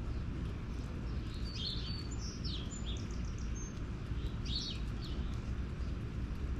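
Small birds chirping in a few short clusters of quick high notes, over a steady low rumble.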